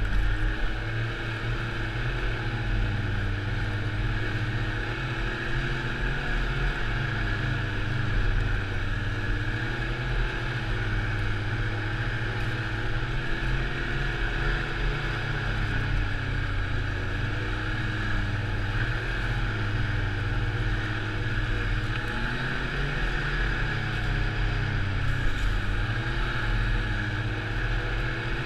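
Snowmobile engine running steadily while riding, its pitch rising and falling a little with the throttle, over a constant hiss.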